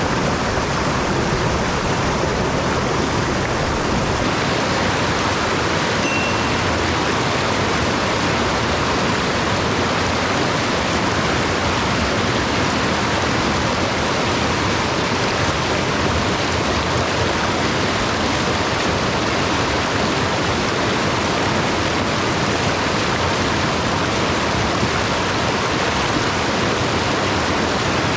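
Mountain stream rushing steadily, a loud, even wash of running water.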